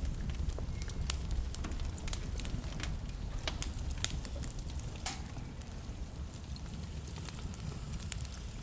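Wood fire burning in a fireplace: a steady low rumble of flames with irregular sharp crackles and pops from the burning logs, one louder pop about five seconds in.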